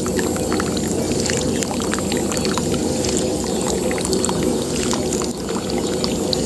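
Water pouring steadily from a pump-fed pipe, with a steady low hum underneath and scattered small ticks and splashes.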